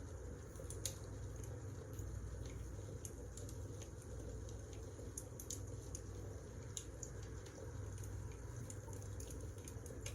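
Wood fire crackling in a fireplace: a steady low rumble of the flames with small irregular pops and snaps every fraction of a second.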